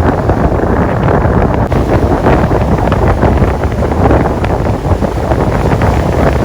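Strong wind buffeting the microphone: a loud, continuous rumbling roar.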